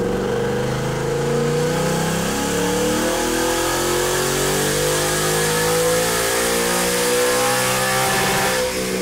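2021 Ford Mustang GT's 5.0-litre V8 at full throttle in sixth gear on a chassis dyno, its pitch climbing slowly and steadily as the rear wheels drive the roller, until the throttle closes near the end. This is a baseline power pull.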